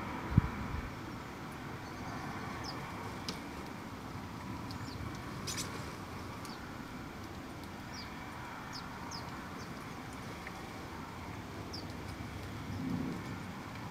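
Garden birds giving short, high chirps now and then over a steady distant traffic hum, with one sharp thump just after the start.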